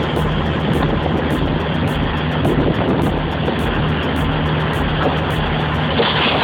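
Heavy-equipment diesel engine running steadily, with a constant low hum.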